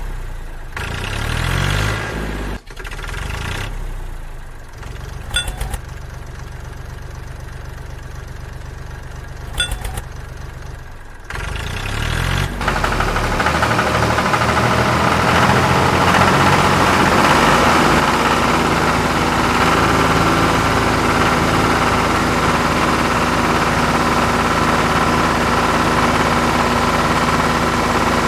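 Tractor engine running at a low idle with two short clicks, then from about twelve seconds in it runs much louder and busier, like it is under load, and holds steady.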